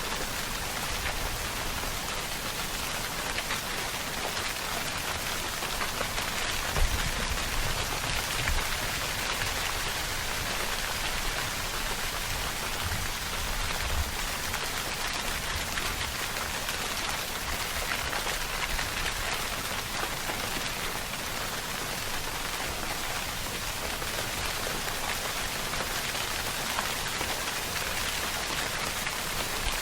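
Steady rainfall pattering on a surface, an even hiss of many drops with scattered individual drop ticks and a few soft low thuds about seven and fourteen seconds in.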